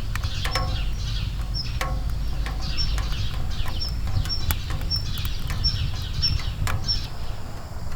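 Small birds chirping repeatedly, short high notes about every half second, over a steady low rumble with scattered sharp clicks.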